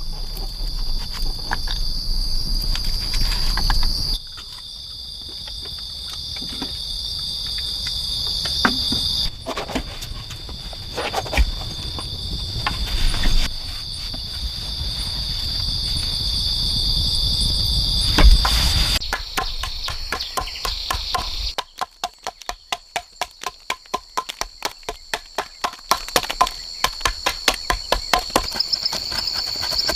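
Insects chirring steadily on a high pitch, with sharp knocks and taps from hand work on top. A loud thump comes just past halfway. From about two-thirds of the way in, the knocks turn into a quick, regular series of strikes, two or three a second.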